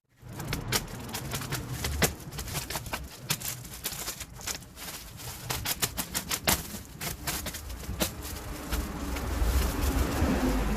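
Packaging of an engine's shipping box being opened and handled: irregular clicks, knocks and rustling, with a low rumble of handling noise growing near the end.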